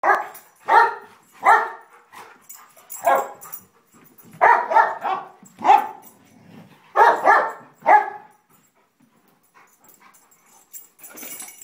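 Dog barking during rough play between two dogs: a dozen or so sharp barks, some in quick pairs, over the first eight seconds, then it goes much quieter.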